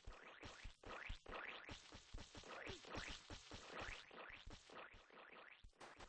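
Birds calling in a dense chatter of quick, overlapping notes, many of them rising in pitch.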